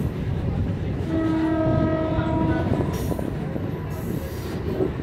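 Moving MEMU train running with a steady low rumble; about a second in, a train horn sounds one held note for about a second and a half.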